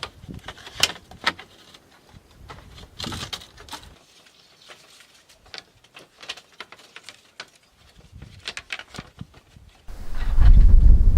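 Scattered light clicks and knocks, then near the end a sudden loud, low rumble of thunder with rain sets in.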